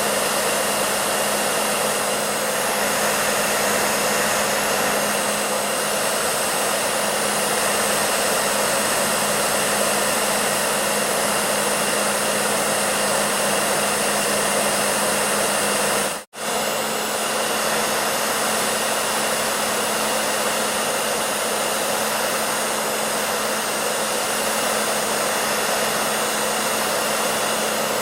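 Hair dryer running steadily: an even rush of blown air with a steady motor hum underneath. The sound cuts out for a split second about sixteen seconds in, then carries on unchanged.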